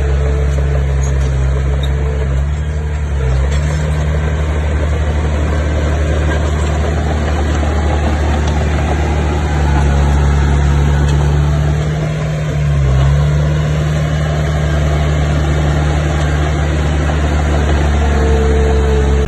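Bulldozer's diesel engine running steadily at a low, deep pitch, dipping briefly in pitch and level about three seconds in and again around twelve seconds in.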